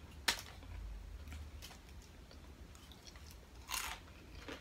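Close-miked chewing and biting of a fried crab rangoon wonton: a sharp crisp crunch just after the start, then softer mouth sounds and small crunches, with another louder short crunch near the end.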